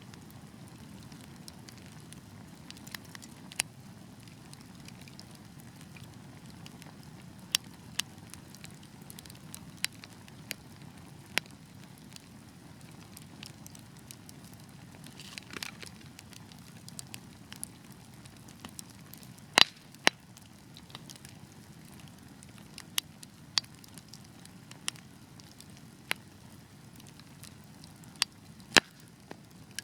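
Wood fire burning with a steady low hiss and rumble, broken by sharp, irregular pops and crackles from the burning logs, the loudest pops about two-thirds of the way through and near the end.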